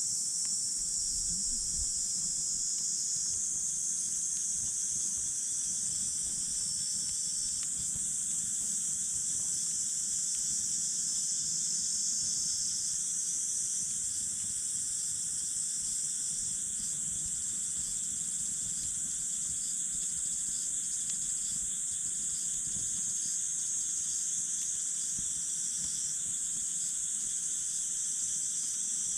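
Steady high-pitched chorus of insects, several layers chirring at once, with the pitch of the layers shifting a little now and then.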